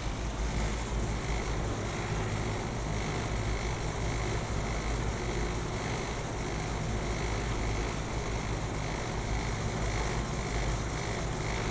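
Rooftop heat pump unit running steadily, its fans turning with a continuous drone and a faint steady whine.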